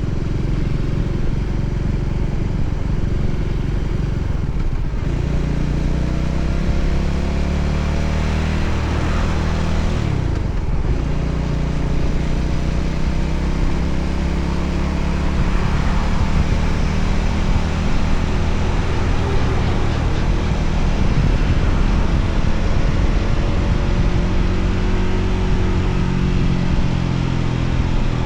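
Voge 300ACX motorcycle's single-cylinder engine running under way, with a steady rush of wind noise. The engine note drops briefly about five and ten seconds in.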